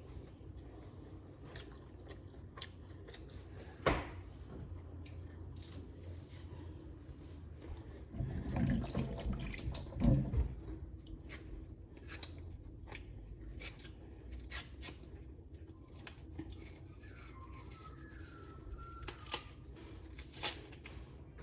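Scattered small clicks and knocks of things being handled, over a low steady hum, with a louder knock about ten seconds in.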